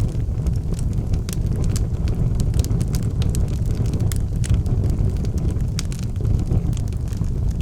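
Wood fire burning in a fireplace: a steady low roar of flames with frequent sharp, irregular crackles and pops from the burning logs.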